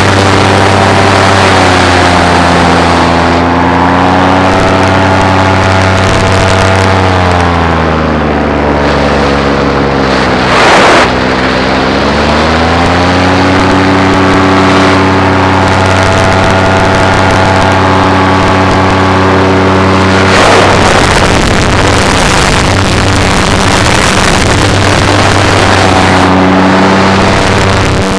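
Paramotor engine running in flight, with wind rushing over the microphone. The throttle is eased back so the engine note sinks over several seconds, then is opened up again and the note climbs back to a steady, higher pitch.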